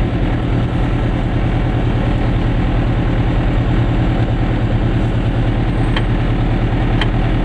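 Goggomobil microcar's two-stroke twin engine running steadily with an even low hum.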